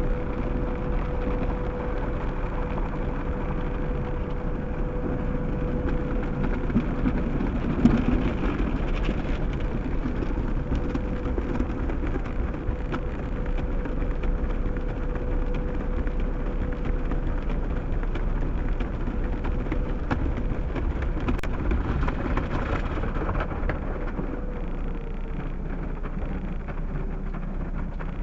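Automatic car wash working over a car, heard from inside the cabin: a steady rush of water spray drumming on the body. A steady hum runs under it and stops about 25 seconds in.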